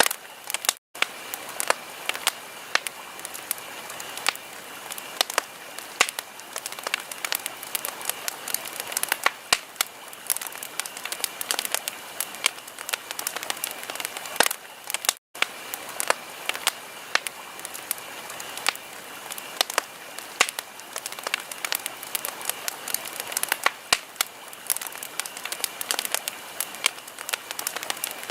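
Wood fire burning in a fireplace, crackling with many irregular sharp pops and snaps over a steady hiss. The sound cuts out to silence for an instant twice, about a second in and about halfway through.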